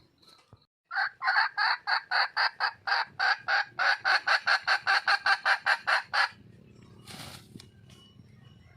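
Wild junglefowl hen calling: a rapid, even run of about twenty short, loud cackling notes, some four a second, that stops abruptly about six seconds in. This is a hen's call for a mate. A low hum and a brief rustle-like noise follow.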